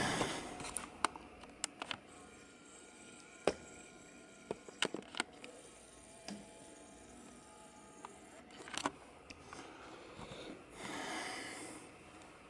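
Quiet indoor room tone with scattered faint clicks and knocks, and a soft breathy rush of noise near the end.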